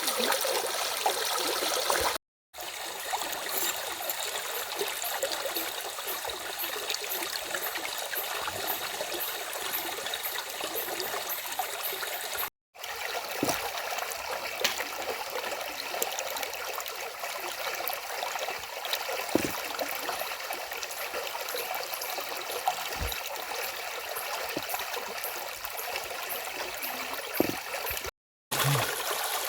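Stream water flowing steadily, a continuous rushing and trickling, cut by three brief moments of total silence.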